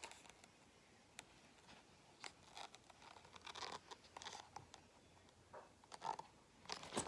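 Near silence with faint, scattered rustling and scratching: the paper pages of a picture book being handled and turned.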